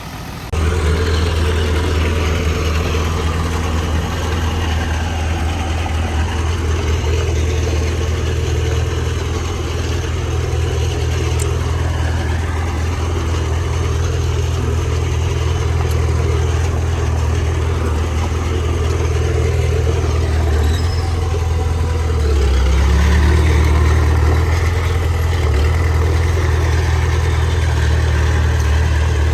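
Heavy diesel engine of earthmoving machinery running steadily under work, a deep continuous drone. It grows louder for a couple of seconds about three-quarters of the way through, as if put under more load.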